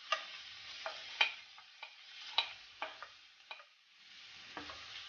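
Chopped onions sizzling in hot vegetable oil in a frying pan, with a cooking utensil clicking and knocking against the pan about eight times at an uneven pace as they are stirred.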